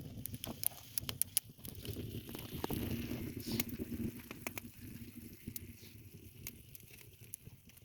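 Wood fire crackling, with scattered sharp pops and snaps.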